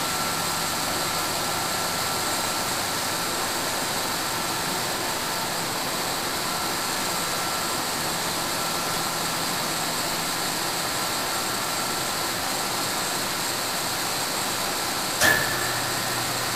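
The 30 hp main drive motor of a Nardini AM 3280 engine lathe running steadily, an even hum and hiss with a faint steady whine. A single clunk sounds about fifteen seconds in.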